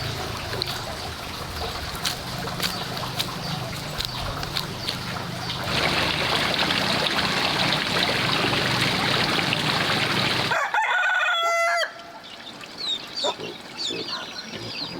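A rooster crows once, a call of about a second, roughly eleven seconds in. Before it a steady hiss with scattered clicks grows louder about six seconds in and cuts off as the crow begins. Short chicken clucks follow.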